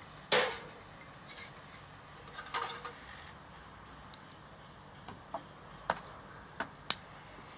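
Scattered sharp clicks and knocks: a louder clatter just after the start, a short cluster of knocks about two and a half seconds in, and single clicks in the second half.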